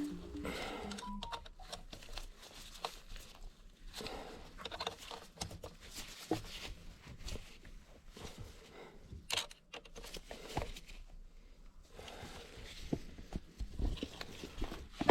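Faint, irregular clicks, taps and rustles of objects being handled, with no steady running sound.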